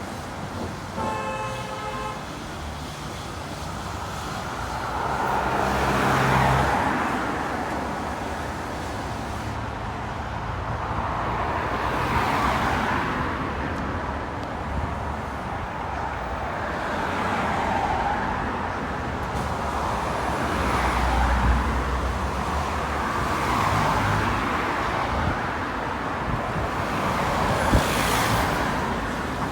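Road traffic passing by, one vehicle after another about every five or six seconds. A short horn toot sounds about a second in.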